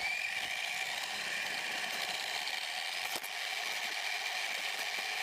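Electric RC car motor and gears whining at a steady pitch as the car drives, with a brief rise in pitch right at the start and a single click about three seconds in.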